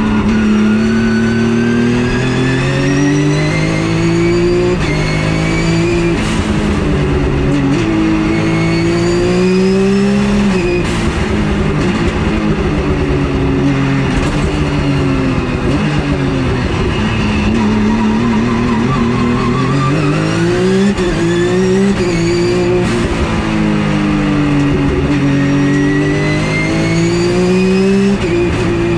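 Porsche GT3 Cup race car's flat-six engine under hard acceleration, its pitch climbing through each gear and dropping sharply at each upshift. Midway it winds down for a while, then pulls up through the gears again.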